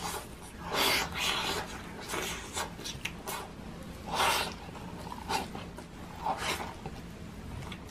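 Close-miked mukbang eating sounds: chewing and lip-smacking in uneven bursts as handfuls of garlic fried rice and tocino are eaten by hand. The loudest smack comes about four seconds in.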